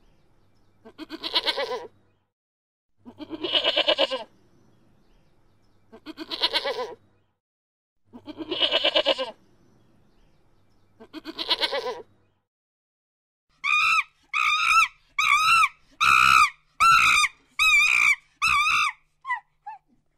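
Bleating animal calls, five of them about two to three seconds apart, each lasting about a second with a quavering pulse. In the last third comes a quick run of about ten shorter, higher, wavering calls.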